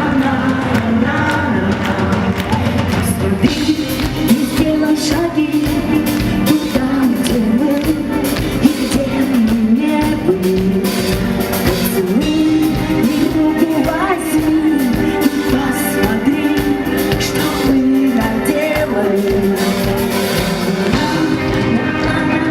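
Live rock band music with a woman singing a melody over a steady beat, in a large hall.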